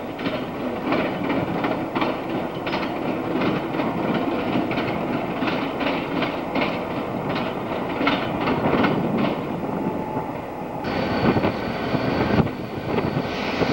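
Diesel freight locomotives rolling past close by, their wheels clacking over rail joints and switch points in a quick, irregular series of clicks over a steady rumble. About eleven seconds in, the sound changes abruptly to the steadier rumble of another diesel train coming on.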